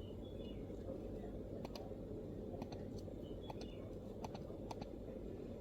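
MacBook laptop keyboard being typed on in sparse, irregular keystrokes: soft individual key clicks with short gaps between them, over a steady low background hum.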